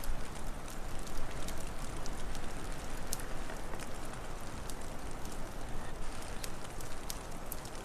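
Wood fire crackling, with sharp irregular pops and snaps scattered through, over a steady low rushing noise.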